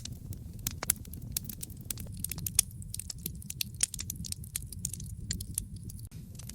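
Wood fire crackling: irregular sharp pops and snaps over a steady low rumble of the flames, with a louder pop right at the start and another about two and a half seconds in.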